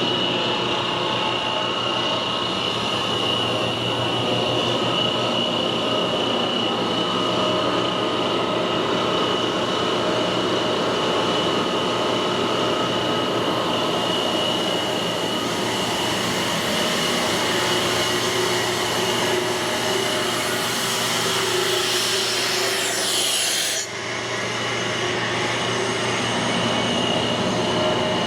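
Gardner Denver ESKAE 60 hp air-cooled rotary screw air compressor running steadily: a loud, even machine noise with a high whine and a low hum. About 21 seconds in, a rushing hiss builds and cuts off suddenly a few seconds later.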